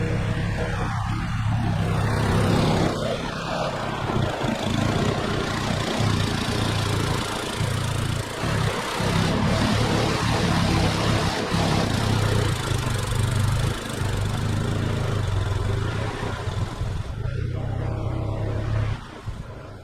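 Snowblower engine running steadily with a rushing noise over it, dropping away sharply near the end.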